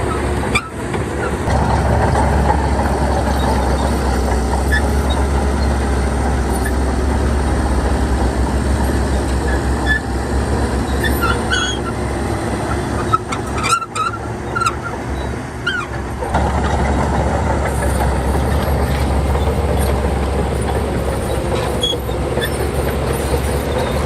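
Heavy diesel earthmoving machinery running loud and steady with a deep rumble, briefly dropping out a little under a second in and again about fourteen seconds in.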